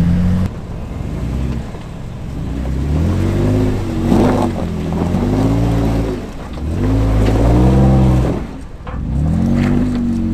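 Off-road Jeep engine revving in repeated bursts while crawling over rock, its pitch rising and falling about four times. There is a short crackle about four seconds in.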